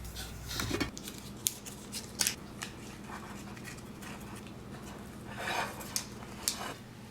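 Kitchen handling noises while mixing Rice Krispie treats: a few scattered sharp clicks and short scraping or rustling sounds, over a faint steady hum.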